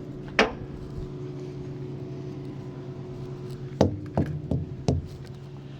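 Semi truck's diesel engine idling steadily behind the trailer. One sharp knock comes about half a second in, and four quick knocks come near the end.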